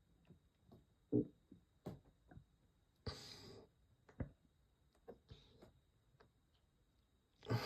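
Faint scattered clicks and knocks, with a short breath out about three seconds in and another breath near the end.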